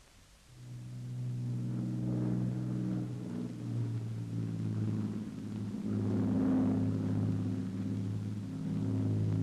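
Piston aircraft engines droning steadily, a low hum with a slight waver, starting about half a second in.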